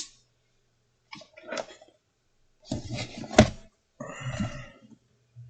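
A man's low grunts and mumbled sounds without clear words, in three short bursts, with a sharp click at the start and another about three and a half seconds in.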